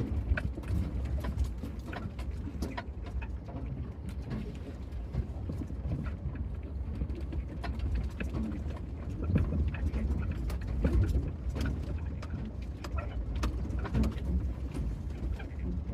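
Van driving over a rough track: a steady low engine and road rumble, with many short clicks and knocks from bumps and stones.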